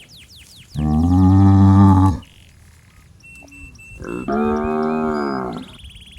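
A calf mooing twice, two long calls a few seconds apart, the second higher-pitched: a young cow calling for its mother.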